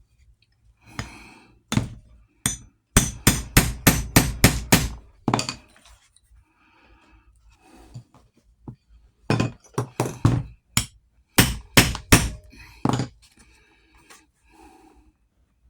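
Hammer blows in quick runs during saddle work: a fast run of about eight strikes a few seconds in, then another run of blows in the second half, with a few single knocks between.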